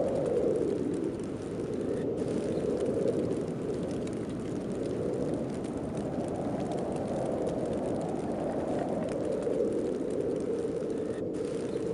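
Wind of a heavy snowstorm blowing steadily, a dense rushing noise that swells and eases slowly every few seconds.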